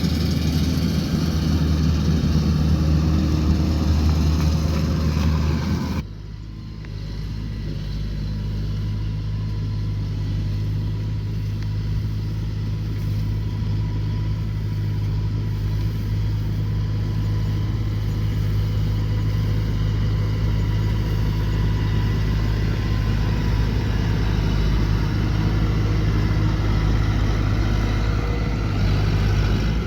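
Rice combine harvester's engine running steadily under load. About six seconds in, the sound cuts suddenly to a different, slightly quieter steady engine note that slowly grows louder.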